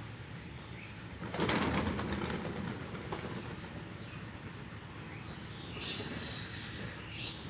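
Birds: a loud burst of wing flapping about a second and a half in, then a few short high chirps near the end.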